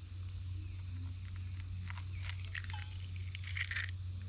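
Steady high-pitched chorus of crickets, with a few faint scattered ticks and taps.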